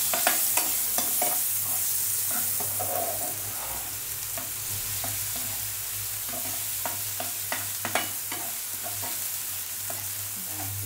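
Onions, curry leaves, garlic and ginger-garlic paste sizzling in hot oil in a kadai while being stirred, with frequent short scrapes and taps of the spatula against the pan. A steady low hum runs underneath.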